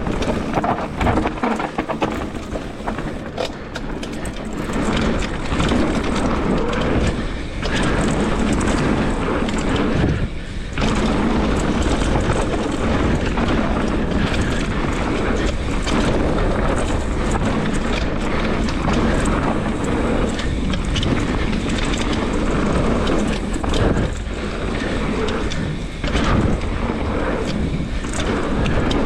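Mountain bike being ridden along a dirt trail: a steady rush of tyre and air noise with frequent clicks and rattles from the bike over the ground.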